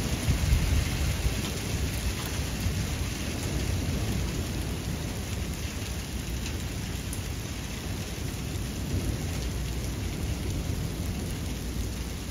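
Heavy rain falling steadily, with a continuous low rumble underneath, loudest in the first second or so.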